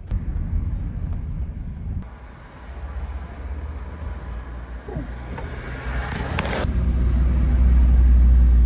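Motorcycle riding sound: the engine running under a low rumble of wind on the microphone, growing louder over the last couple of seconds. A brief rush of noise comes about six seconds in.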